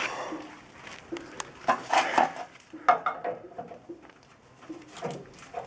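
Metal clinks and knocks from tools and pipe fittings being handled during water heater work, a few sharp strikes with short ringing, the loudest about three seconds in.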